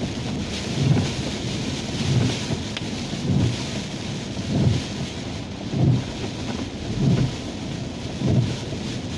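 Rain on a moving car with steady road noise, and windshield wipers sweeping in an even rhythm, a low swish about every second and a quarter.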